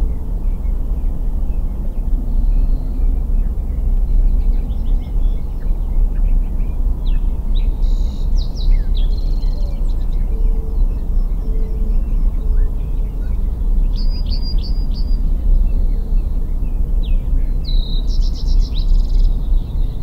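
Birds chirping in short high trills a few times, clearest in the second half, over a steady loud low rumble of outdoor background noise.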